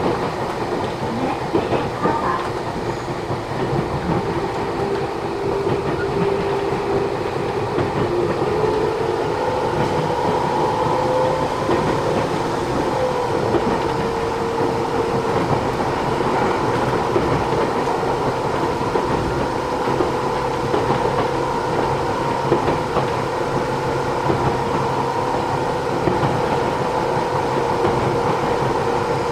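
Interior running sound of a Matsumoto Electric Railway 3000 series electric train. The traction motor whine rises in pitch for a few seconds as the train picks up speed, then holds steady over continuous wheel and rail noise with clickety-clack from the rail joints.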